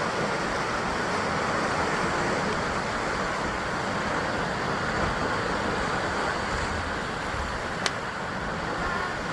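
Sea surf washing continuously against a rocky basalt shore, a steady rushing with no pauses between waves. A single sharp click sounds near the end.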